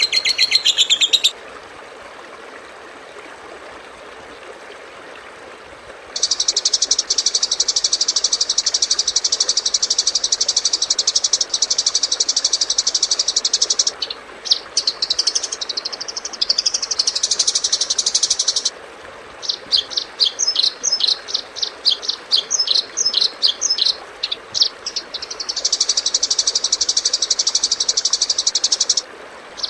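Recorded bird-training sounds: high chirping ends about a second in, then after a few seconds of hiss a long steady high buzzing trill, a warbling song phrase, a run of quick sharp chirps and another buzzing trill, over a steady hiss.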